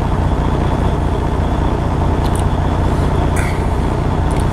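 Steady low rumble of a running semi truck, with a couple of faint clicks in the middle.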